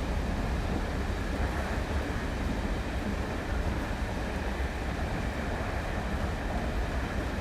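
Diesel train station ambience: a steady low rumble of diesel trains with an even background hiss and no distinct events.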